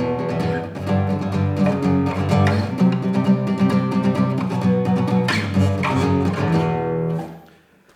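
Acoustic guitar playing a song intro: strummed chords with rapid tremolo picking and gallop-rhythm strumming. The last chord rings out and fades away shortly before the end.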